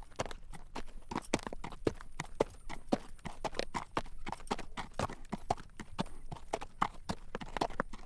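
Horse's hooves clip-clopping on a road as it walks, pulling a carriage: a steady run of sharp clacks, several a second.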